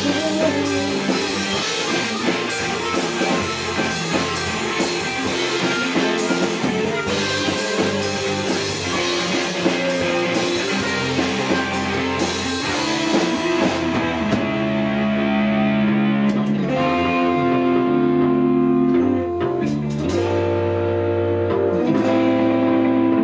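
Live rock band playing an instrumental passage on electric guitar, bass and drum kit. About halfway through, the drums and cymbals mostly drop out, leaving long ringing guitar chords with a few drum hits.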